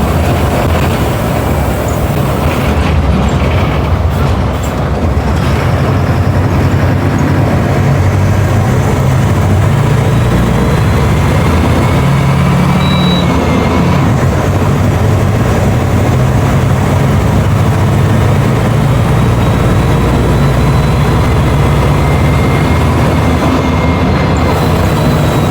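Mercedes-Benz OF 1721 BlueTec 5 bus's four-cylinder diesel engine running steadily with a low drone, its pitch rising and falling a little around the middle.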